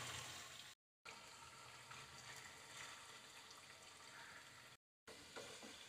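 Very faint sizzle of potato chunks frying in hot oil, near silence, broken twice by a brief moment of dead silence.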